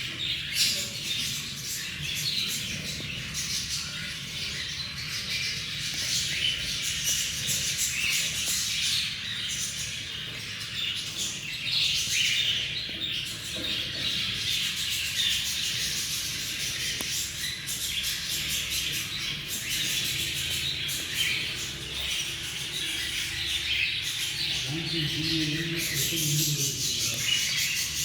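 Birds chirping and twittering without pause, many quick high calls overlapping, over a steady low hum.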